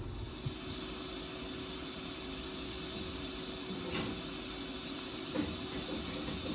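Steady hiss of a welding arc on stainless steel exhaust tubing, starting abruptly as the arc strikes, with a few faint ticks later on.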